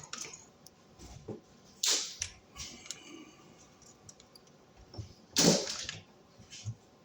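Scattered clicks and scrapes of a wall receptacle being pushed into its electrical box and its mounting screw being worked, with a louder scrape about five and a half seconds in.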